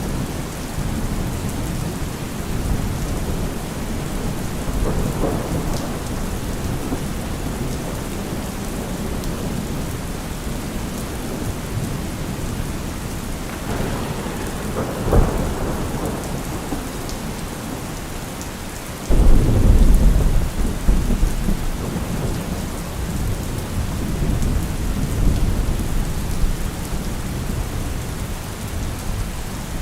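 Steady rain falling through a thunderstorm, with thunder rumbling several times. A loud thunderclap breaks in suddenly about two-thirds of the way through and rolls on for several seconds.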